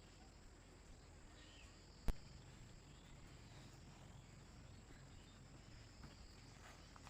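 Faint forest night ambience with insects, likely crickets, droning steadily at a high pitch. A single sharp click about two seconds in.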